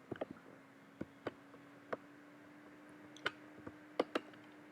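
Irregular, sharp clicks of a computer mouse and keyboard, about ten of them, with a cluster at the start and a few more spread through, over a faint steady hum.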